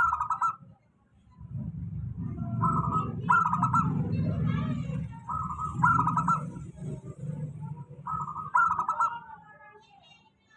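Zebra dove (perkutut) calling: four phrases, each a short coo run into a quick stuttering trill, repeated about every two and a half seconds. A low rumble sits under the calls through the middle.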